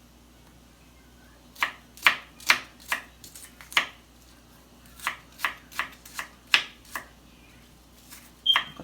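Knife chopping seasoning on a cutting board: about a dozen sharp, uneven strokes, then a louder knock with a short ringing clink near the end.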